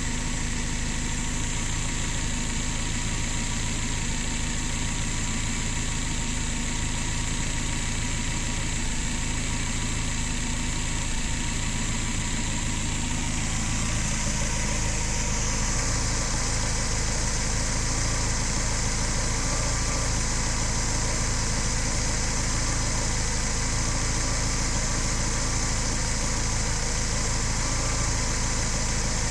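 Engine idling and misfiring while run by a DTA S80 aftermarket engine management unit. About halfway through, its note changes and it grows slightly louder.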